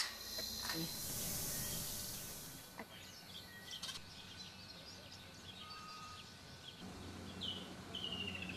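Outdoor ambience with birds chirping and calling. A hiss comes early on, and two short falling calls come near the end.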